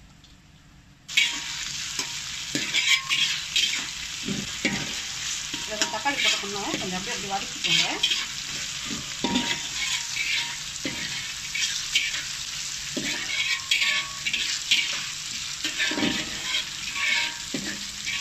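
Chopped tomatoes frying in hot oil with whole spices and curry leaves: a sizzle that starts suddenly about a second in, stirred in the pan with repeated scraping strokes.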